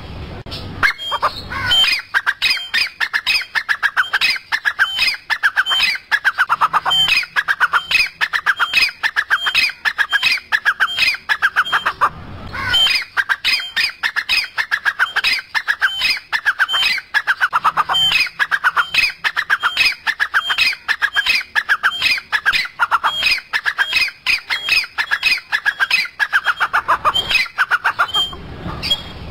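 Birds calling without pause: a rapid run of short, falling notes repeated several times a second, with a brief lull about 12 seconds in.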